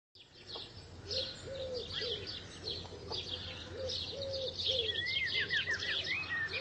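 Forest bird chorus: many small birds chirping and twittering. A low cooing call repeats throughout, and a quick run of falling whistled notes comes about five seconds in.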